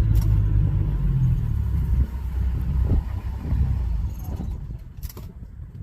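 Safari vehicle's engine idling with a steady low rumble that eases off in the last couple of seconds. A sharp click sounds about five seconds in.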